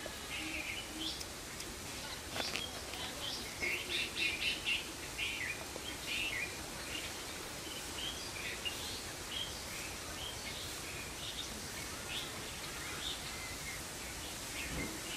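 Birds chirping: many short, high calls overlapping, busiest a few seconds in, over a steady background hiss.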